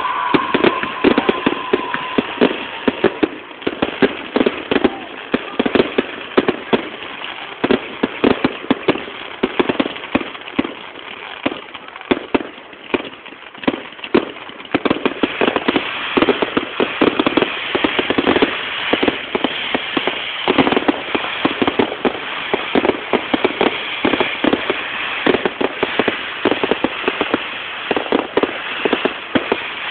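Fireworks display: a dense, continuous run of bangs and crackles, with a whistle trailing off in the first couple of seconds. It thins slightly midway and grows busier again from about 15 seconds in.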